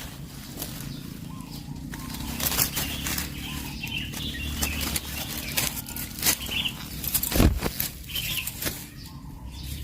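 Coucals at the nest: irregular rustling and wing flaps among twigs and leaves, with a few faint high chirps.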